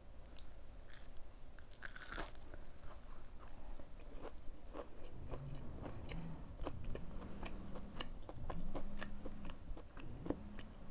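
Close-miked bite into a crispy breaded plant-based fried chicken nugget, with a loud crunch about two seconds in, followed by crunchy chewing with many small crackles.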